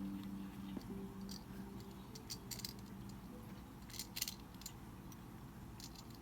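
A few guitar notes ringing out and fading in the first second, then a few faint, sharp clicks and light rattles, a small cluster about four seconds in.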